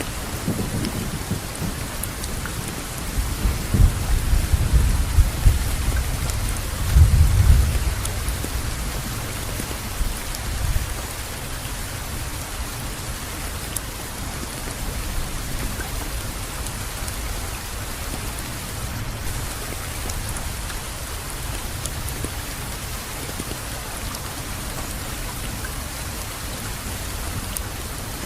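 Steady rain falling, with deep rumbles swelling about four and seven seconds in, then the rain alone.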